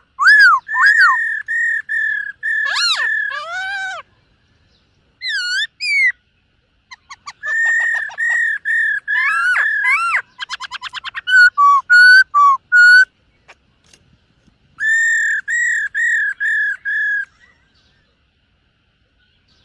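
Black-throated laughingthrush singing: loud, clear whistled phrases of repeated arching notes, with a rapid trill about halfway through and short silences between phrases.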